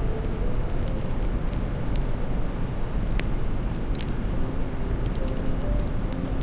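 Wood fire burning in a fireplace: a steady low rumble with scattered crackles and pops, the sharpest about three and four seconds in.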